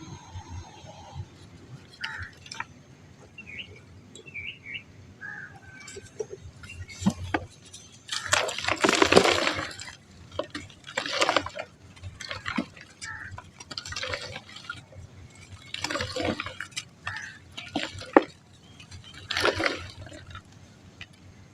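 Soft, dry pure mud crumbling in a series of irregular gritty bursts with small clicks between them. The longest and loudest crumble comes about eight seconds in, followed by shorter ones.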